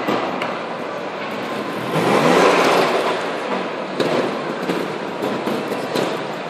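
Trials motorcycle engine revving in short bursts in a large echoing hall, with a sharp knock about four seconds in.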